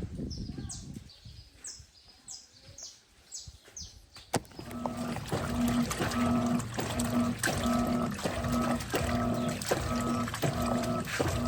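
Birds chirping. About four seconds in there is a click, and the Electrolux LTP15 top-load washing machine starts agitating: its motor hums in short strokes about twice a second as the agitator reverses, with water sloshing.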